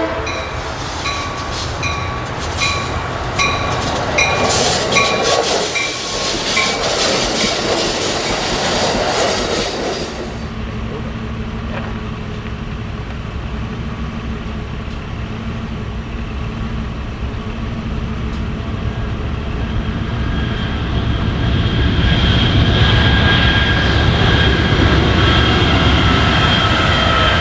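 A train approaches with a regular ringing click about twice a second. After a cut about ten seconds in, an eastbound BNSF double-stack intermodal train led by GE ES44DC and ES44C4 diesel-electric locomotives comes closer: a steady low diesel drone grows louder, and from about 20 s in a high whine joins it, falling slightly in pitch near the end as the locomotives pass.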